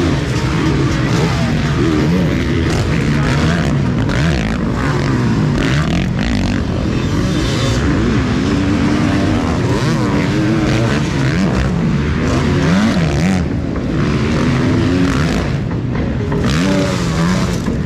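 Several motocross bikes' engines running and revving, their pitch rising and falling continually as the riders work the throttle.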